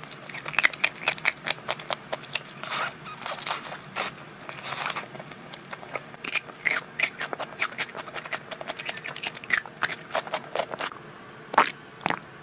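Close-miked eating: crunchy bites and chewing, a rapid, irregular run of crisp clicks and crunches, with a couple of louder sharp knocks near the end.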